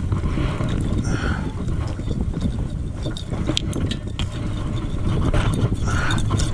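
Steady low rumble of wind and water around a fishing kayak, with scattered small knocks.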